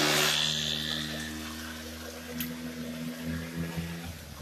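50cc Coolster dirt bike engine held at high revs, its pitch steady, slowly fading as the bike moves off. A loud, wet hiss at the start, from the tyre churning mud.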